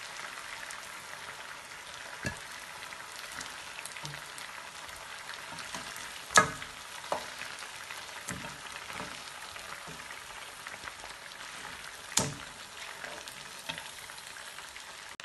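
Chicken drumsticks frying in oil in a pan: a steady sizzle, with a few sharp knocks of wooden tongs and spatula against the pan, the loudest about six seconds in.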